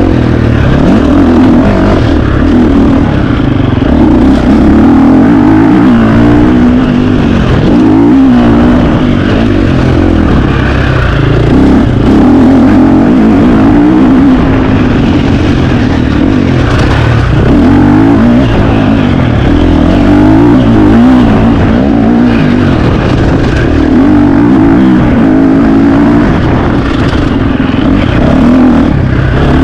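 KTM 350 XC-F dirt bike's four-stroke single-cylinder engine being ridden hard, its pitch rising and falling over and over with the throttle and gear changes.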